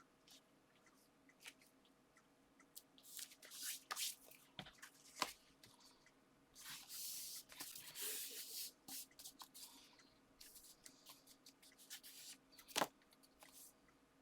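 Paper and card being handled and pressed together: soft rustling and rubbing, a longer stretch of rubbing in the middle, and two sharp taps, one about five seconds in and one near the end.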